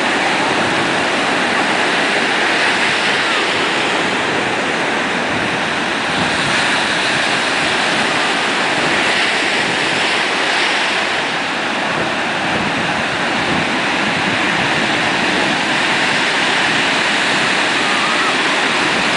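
Big ocean surf breaking on a sandy beach: a continuous, even wash of waves with no distinct single crashes.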